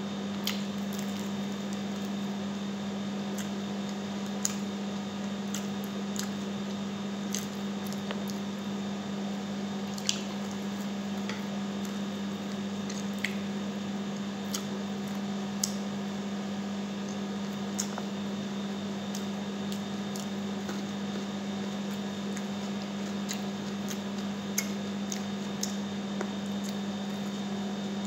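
Close-up wet chewing and lip-smacking of someone eating sticky honey garlic chicken by hand, with scattered small mouth clicks. A steady low hum runs underneath.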